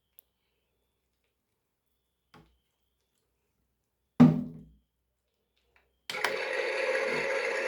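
One sharp knock about four seconds in, then a toy washing machine's small motor starts about six seconds in and runs with a steady whir.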